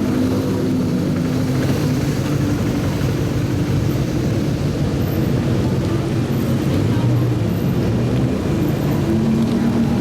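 Supercar engines running at low revs, a steady deep exhaust note whose pitch shifts slightly near the end.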